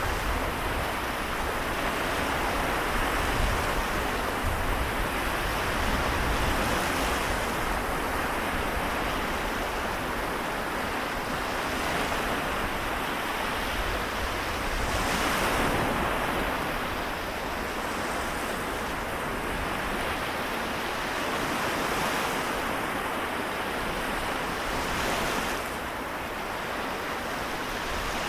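Small waves washing onto the Seto Inland Sea shore, a steady hiss of surf that swells and eases every few seconds, with a brighter wash about halfway through. Wind rumbles on the microphone underneath.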